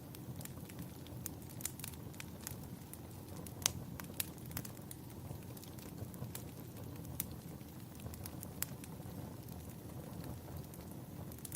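Wood fire in a fireplace crackling, with irregular sharp pops, one louder snap a little past a third of the way in, over a steady low rumble.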